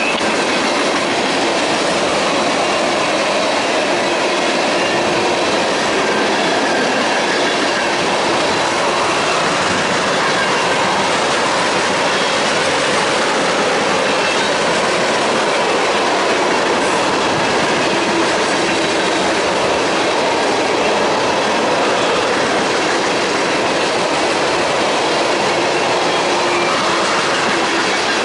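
Freight train tank cars rolling past close by: a steady loud rumble and rattle of steel wheels on the rails, with faint high wheel squeals here and there.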